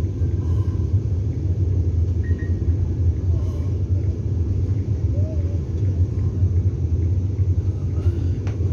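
Steady low rumble inside a Vande Bharat Express coach standing at a station, with faint voices in the background.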